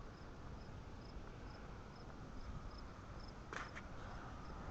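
Faint insect chirping, short high chirps at about two a second, over a low rumbling background, with one short sharp click about three and a half seconds in.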